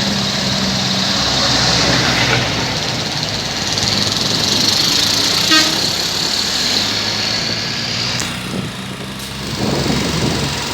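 Scania R 540 road-train truck running, its engine steady under road noise, with a horn toot in the middle.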